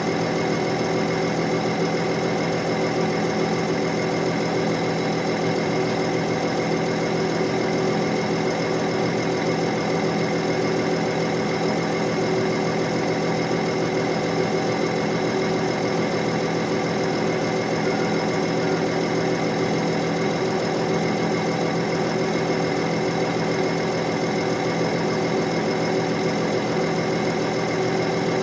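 Heavy-machinery diesel engine running steadily at a constant speed, a dense even drone with no revving or load changes.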